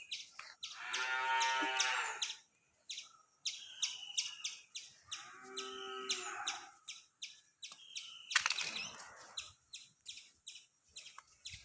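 A farm animal calls twice, two long drawn-out calls a few seconds apart, while small birds keep up rapid high chirping and short falling whistles.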